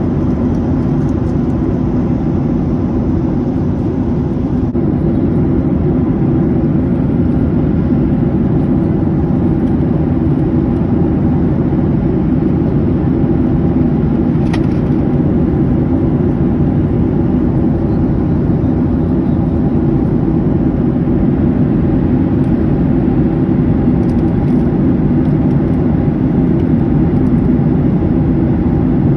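Steady jet airliner cabin noise: engine hum and airflow running evenly, with a brief click about halfway through.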